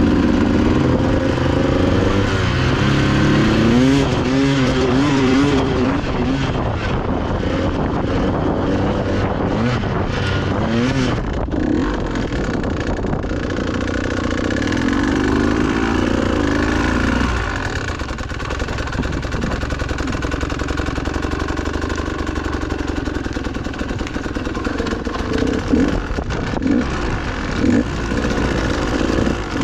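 Dirt bike engine revving up and down as it is ridden on a trail, its pitch rising and falling again and again. About seventeen seconds in it eases off and runs lower and quieter, with a few knocks near the end.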